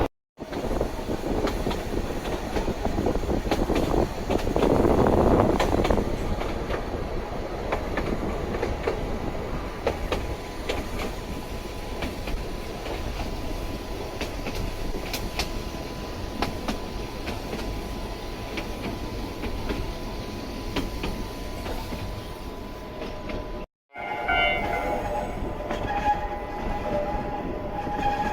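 Narrow-gauge electric train with nose-suspended traction motors running along the track: a steady rumble with light clicks of the wheels over the rail joints. The sound breaks off abruptly twice, and after the second break a tone with several pitches sounds over the running noise.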